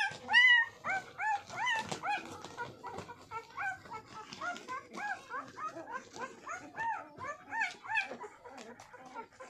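Newborn German Shepherd puppies squeaking and whimpering while nursing: many short high squeals that rise and fall in pitch, several a second and overlapping, loudest near the start.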